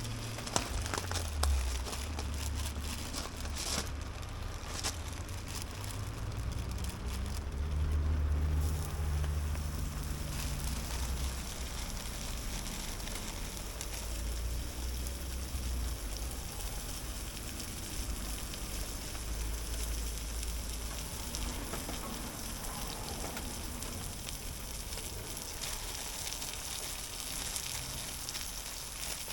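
Steady rain falling, an even hiss of drops, with a low rumble and scattered ticks through the first eight seconds or so.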